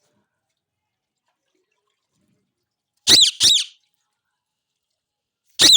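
Indian ringneck parakeet giving short, shrill calls, each rising and falling in pitch: a quick pair about three seconds in, and another pair starting just before the end.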